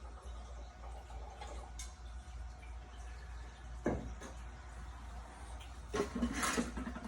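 Hard objects being handled: a single sharp knock about four seconds in, then a short burst of clattering knocks near the end, over a steady low hum.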